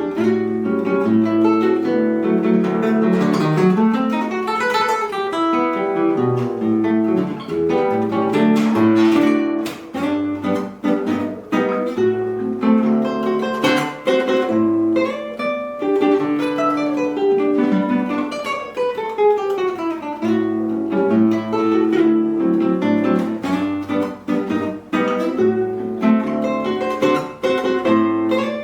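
Acoustic guitar played solo: a plucked melody over moving bass notes, with several quick runs of notes sweeping up and down.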